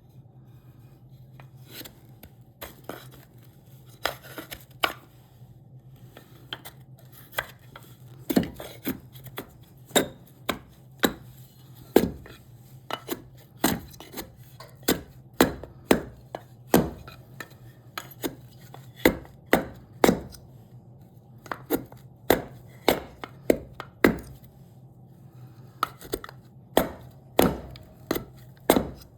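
Repeated sharp strikes of a hand tool into cherry wood, scattered at first and then coming steadily more than once a second. A faint steady low hum runs underneath.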